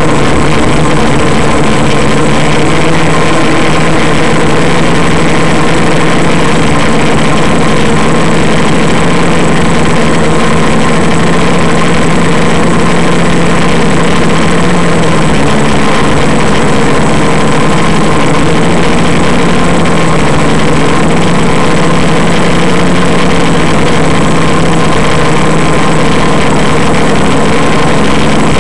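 Quadcopter's electric motors and propellers running, a loud steady hum and whine over a rushing noise, with little change in pitch.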